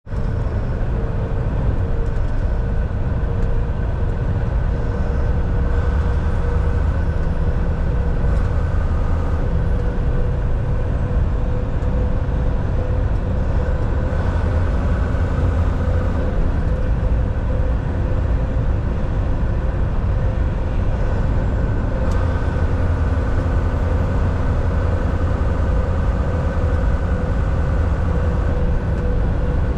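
Volvo VNL 760 semi truck cruising, heard from inside the cab: a steady low engine and road-noise drone with a constant hum running through it.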